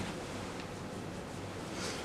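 Steady background hiss of room tone with a faint low hum, no distinct event.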